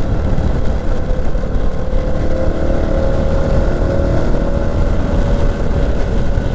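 Small Herald motorcycle riding at speed, with wind rumbling over the microphone and the engine droning steadily underneath.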